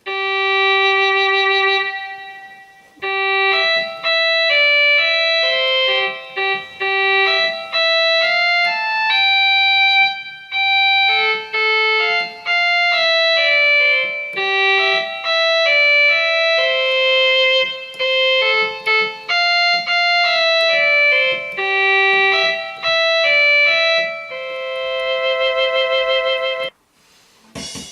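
Electronic keyboard playing a single-line melody of sustained notes, ending on a long wavering note that stops shortly before the end.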